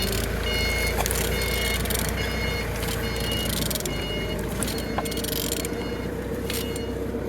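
Turbine engine's rotor being turned by hand, spinning with a steady whir and high ringing tones over a low hum; it turns freely.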